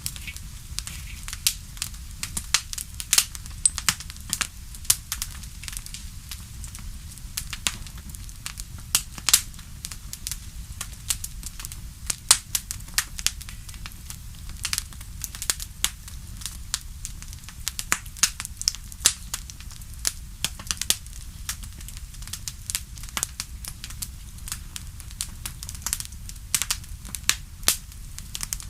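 Wood fire crackling steadily, with frequent sharp irregular pops and snaps over a low rumble of flame.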